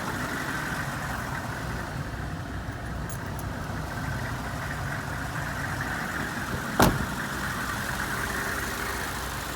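Car engine idling steadily, with a single sharp knock about seven seconds in.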